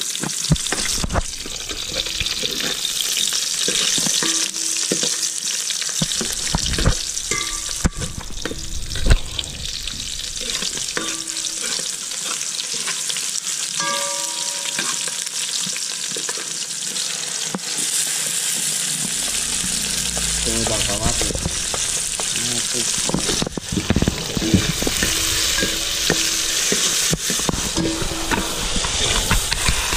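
Chopped onion and tomato sautéing in oil in an aluminium pot, a steady sizzle throughout. A metal spoon stirring and scraping against the pot makes frequent clicks and brief rings.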